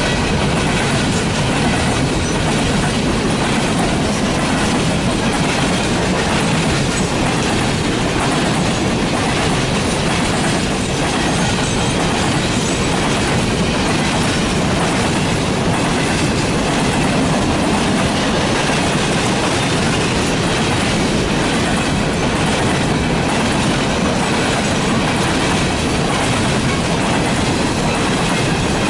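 Norfolk Southern freight train rolling steadily past, its car wheels running over the rails in a constant loud rumble.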